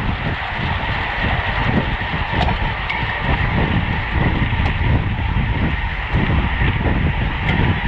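Steady wind rush and road noise from a road bicycle being ridden at racing speed, with a faint steady high whine and a few light ticks over the rumble.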